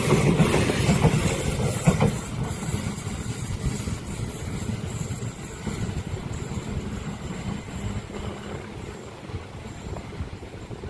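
A train rolling past on the rails, with the wheels knocking over the rail joints. The sound is loudest at the start and fades steadily as the train moves away.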